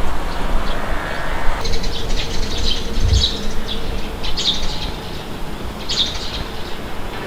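Small birds chirping in short repeated calls over a steady low rumble of wind.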